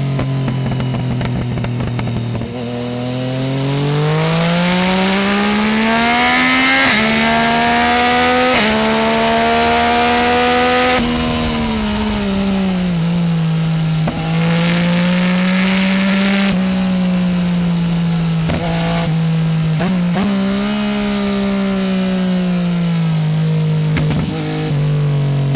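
Yamaha Tracer 900 GT's inline-three engine through a full Roads Italia aftermarket exhaust, under way. It pulls up through the revs for about the first eleven seconds with a couple of short dips, then drops back and holds steady cruising revs. It eases off again near the end and picks up once more.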